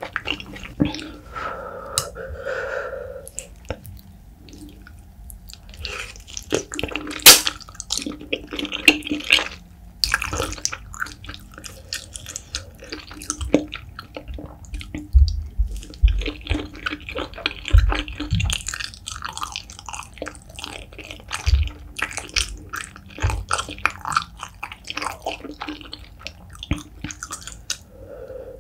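Close-miked wet chewing and lip smacking while eating chewy braised beef feet and wide flat noodles in a thick spicy sauce: a dense stream of sharp wet clicks and squelches, with a few low thuds midway.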